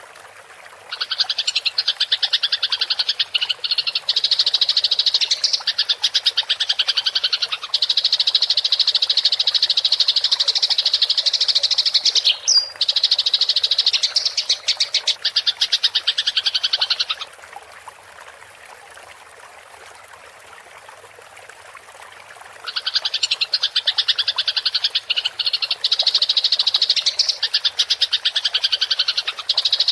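Eurasian tree sparrows chirping in a fast, unbroken rattling stream, the excited chatter of sparrows fighting. It comes in two long runs, with a pause of about five seconds between them in which only a faint hiss remains.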